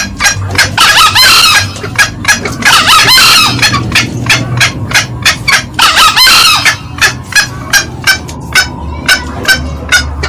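Green junglefowl calling loudly, as in a bird-lure recording: a run of short cackling calls repeated about three a second, broken by three longer calls about one, three and six seconds in.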